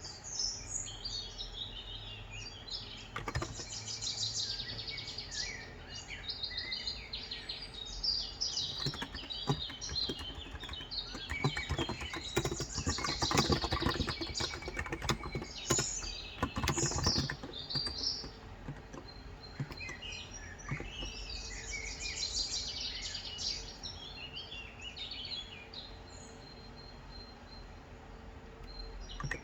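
Small birds chirping and twittering continuously, with runs of keystrokes on a Cox Endeavor electrostatic capacitive keyboard with 35 g switches, the typing thickest midway through.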